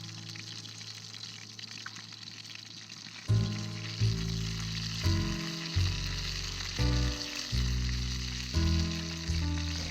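Food sizzling as it grills over a campfire, a steady hiss. Background music with a regular bass beat comes in about a third of the way through.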